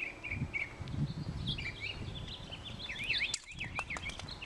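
Small birds chirping: many short, quick notes that swoop up and down in pitch, growing busier in the second half, over a low rumble.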